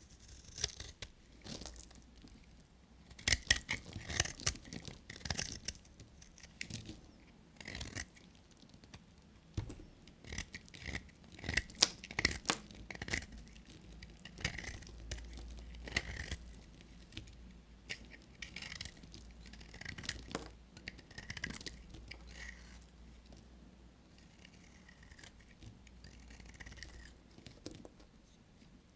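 Dry bar soap being cut with a blade: a run of short crunching cuts at an uneven pace, loudest about four seconds in and again around twelve seconds in.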